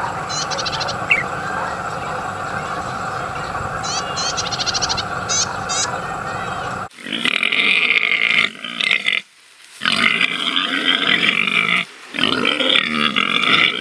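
An animal's loud, rough calls in long bouts with short pauses, starting abruptly about seven seconds in. Before them there is a steady outdoor background with a few short, quick chirping trills.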